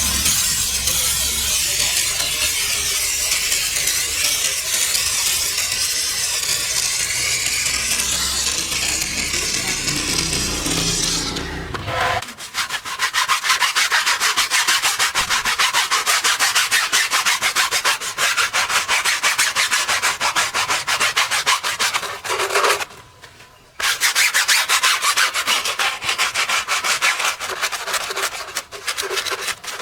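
A steady hissing noise with a low hum, then, about twelve seconds in, a stiff brush scrubbing in rapid back-and-forth strokes, pausing briefly near the end before scrubbing on.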